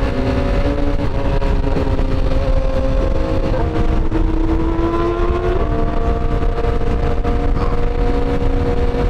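BMW S1000RR superbike's inline-four engine running while riding, loud and steady, its pitch stepping between levels. About four seconds in the pitch climbs slowly, then drops suddenly at about five and a half seconds.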